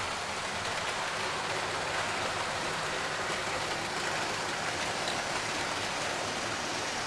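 Old OO-gauge model diesel locomotives running on the layout: a steady whirr of the motors and wheels rolling on the track.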